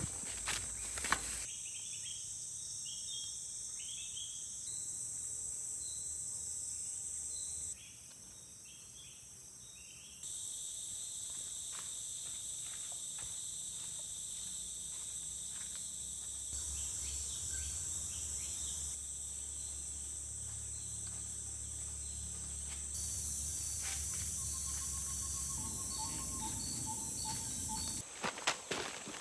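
Forest ambience: insects buzzing steadily at a high pitch with scattered bird chirps, in several short clips that cut abruptly from one to the next. Near the end a call repeats at an even pace.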